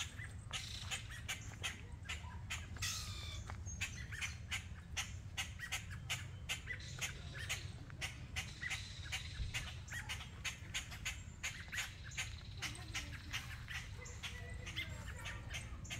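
Birds squawking sharply over and over, about three calls a second, scolding at the cat on the path. A few rising whistled notes come in about three seconds in, over a steady low rumble.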